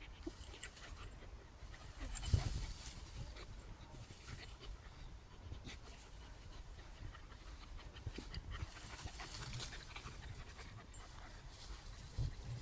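A German jagdterrier panting.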